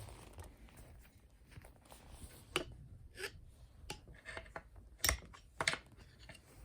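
Hand tools clicking and tapping against the metal parts of a chainsaw's flywheel end: about five separate sharp clicks, the loudest about five seconds in.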